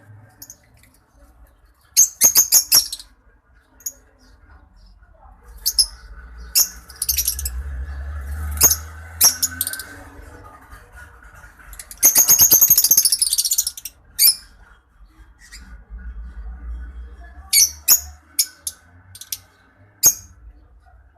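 A lovebird colony chattering in shrill bursts of rapid chirps and squawks, the longest and densest about twelve seconds in. A low rumble runs underneath.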